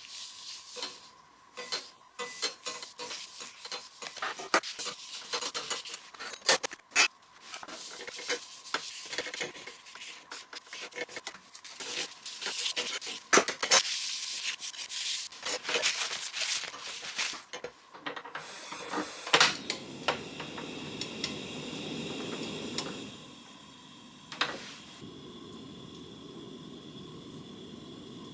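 Irregular hand scraping and rubbing strokes on metal, then a steady hiss from about two-thirds of the way through.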